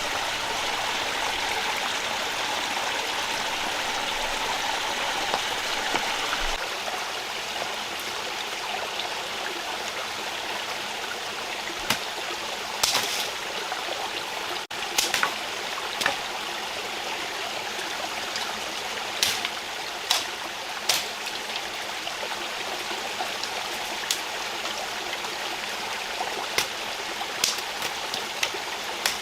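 Steady rushing of a rainforest stream over rocks, its tone shifting a little about six seconds in. Through the second half, a dozen or so short sharp knocks and snaps stand out above the water.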